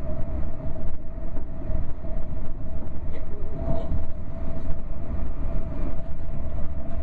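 Passenger train running at speed, heard from inside the carriage: a steady low rumble with a constant mid-pitched whine over it.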